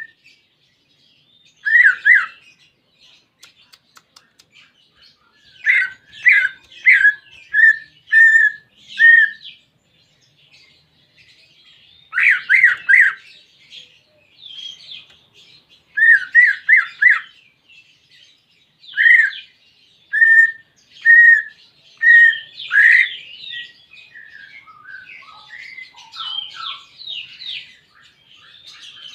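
Green leafbird (cucak ijo) singing: loud groups of short, clear repeated notes every few seconds, with softer twittering between the groups and a run of more varied chattering notes near the end.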